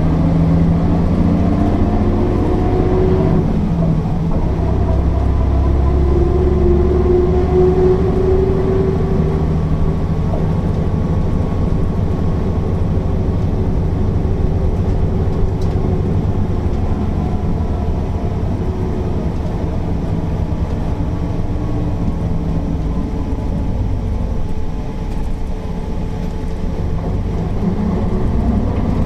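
Mercedes-Benz O408 bus's diesel engine running under way. Its pitch climbs over the first few seconds, drops about three to four seconds in, climbs again, then settles lower and rises once more near the end.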